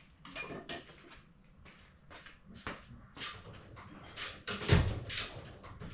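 Scattered clicks, light knocks and rustling as car parts and wiring are handled, with one heavier thump about three-quarters of the way through.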